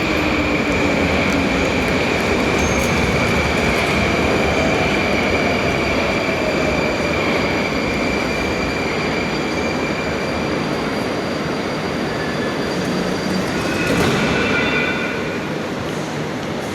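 Moscow metro train pulling out of the station: a steady rush of wheels and motors with a high whine that fades after about ten seconds. A brief squeal comes near the end, and the noise slowly dies down as the train leaves.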